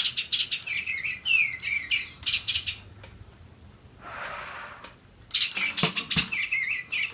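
Spin Master Digibird toy birds tweeting electronic chirps, quick repeated gliding notes that stop about three seconds in. A short breathy hiss follows, then the tweeting starts again about five seconds in.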